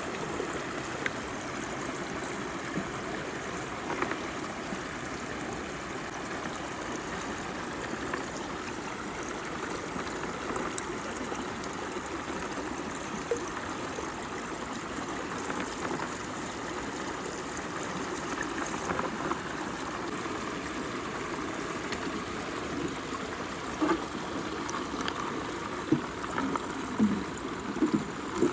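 Water swirling down a mud whirlpool hole as a steady rushing, gurgling flow, with a few short plops, more of them near the end.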